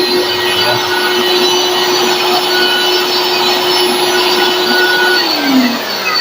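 Vacuum cleaner motor and blower running with a steady whine, then switched off about five seconds in, its pitch falling as it spins down. It sounds good and runs freely, with the blocked air passage to its blower cleared.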